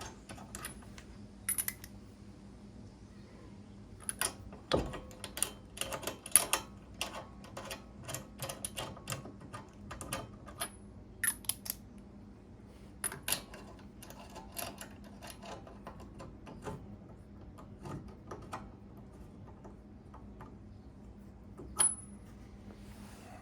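Irregular metallic clicks, clinks and taps from hand tools and small metal parts being handled during brake work, with a few louder knocks about five to seven seconds in and one sharp clink near the end. A faint steady hum sits underneath.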